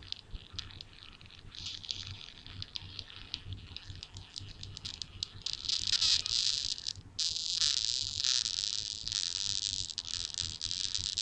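Close-up crackling, rubbing ear noises: rapid clicks and rustling that grow louder and more continuous from about halfway, ending in a steady scratchy rush.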